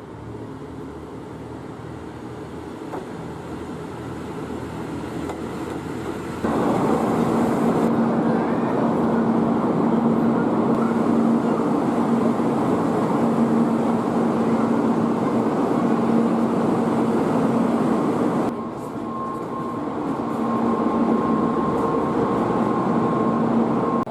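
Train running on the line, heard as a steady rumble with a constant hum. It grows abruptly louder about six seconds in, drops back about eighteen seconds in, then builds again.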